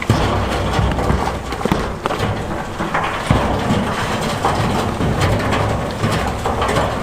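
Heavy earthmoving machinery running with a steady low drone, over many irregular knocks and clatters of stone and steel.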